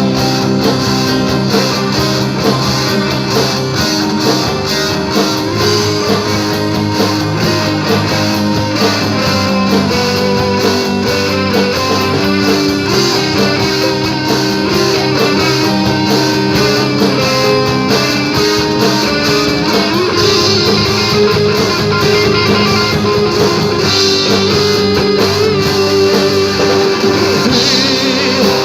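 Symphonic heavy metal band playing an instrumental passage with no vocals: electric guitars over a steady drum beat.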